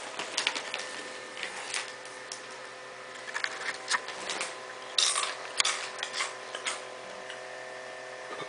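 Scattered crisp crunches and crackles of Dorito tortilla chips being eaten, louder about five seconds in, over a faint steady hum.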